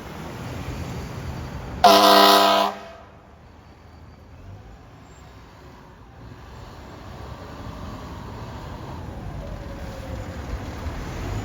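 Fire engine air horn giving one loud blast of about a second, about two seconds in, followed by the engine and road noise building toward the end.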